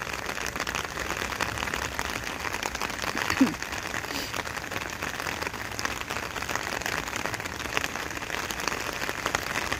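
Steady rain falling, an even hiss flecked with many small drop ticks. A brief falling squeal cuts through about three and a half seconds in.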